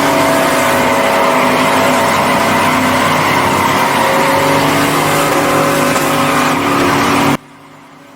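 Truck engine held at high revs during a burnout, with tires spinning and squealing on the pavement. The sound breaks off abruptly for a moment near the end.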